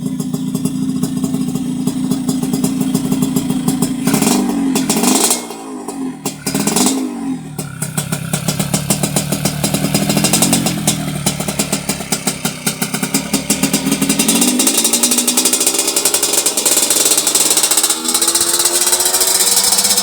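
Yamaha RX-King's two-stroke single-cylinder engine idling, blipped twice in quick succession, then revved up and held at high revs for the rest of the stretch.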